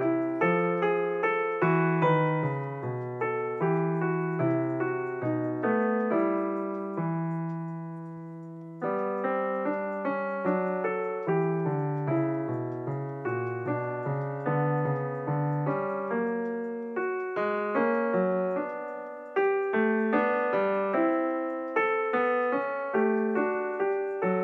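Background piano music: a steady run of gently struck notes, with one chord held and fading away about eight seconds in before the tune picks up again.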